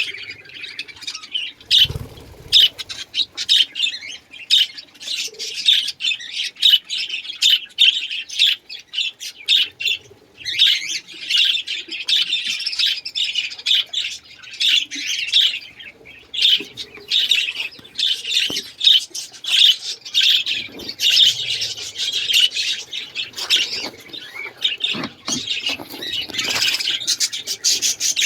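Many cage birds in a breeding aviary calling rapidly and continuously, with a dull thump about two seconds in.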